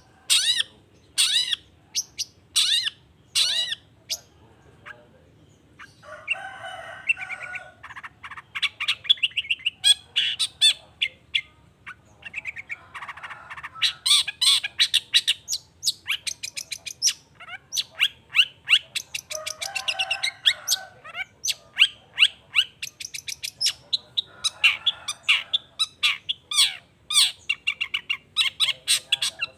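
Long-tailed shrike (cendet) singing in full voice: rapid runs of sharp, high chips and whistled notes, broken every few seconds by harsh, rasping phrases.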